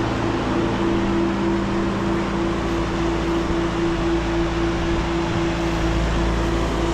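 An engine running steadily with a constant, even hum.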